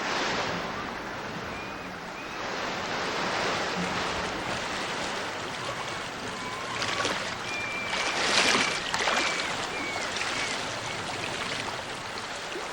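Rushing river water, a steady rush that swells and eases, with a few short, high bird calls over it.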